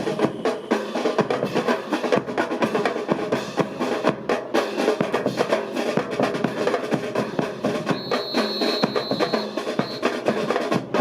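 Marching percussion: snare drum rolls and sharp strikes over bass drum in a dense, steady rhythm. A thin high tone is held for about two seconds near the end.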